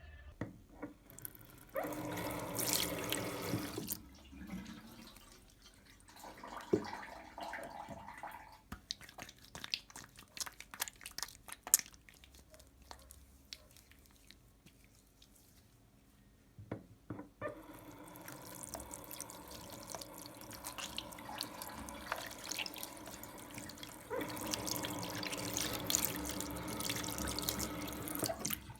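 Tap water running into a sink in short spells, with scattered clicks and knocks in between, then a longer steady run in the second half.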